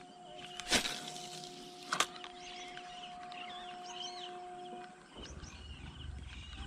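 Small birds chirping, with a steady low hum underneath. Two sharp knocks stand out, under a second in and again about two seconds in, and a low rumble comes in near the end.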